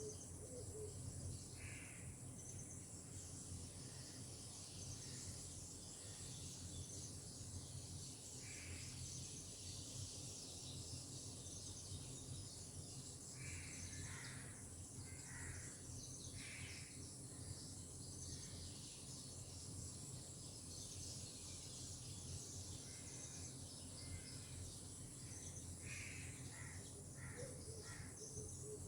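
Faint outdoor ambience with scattered short bird calls: a single call or two early on, a cluster of calls in the middle, and another run near the end, over a steady hiss and low rumble.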